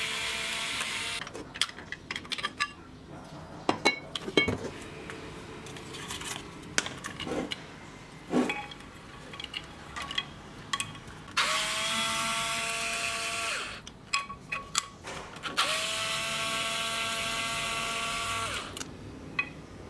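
A small electric power tool motor, a drill or power screwdriver, runs in three short spells, each speeding up as it starts and stopping cleanly after two to three seconds. Between the spells, metal parts and screws click and knock as they are handled.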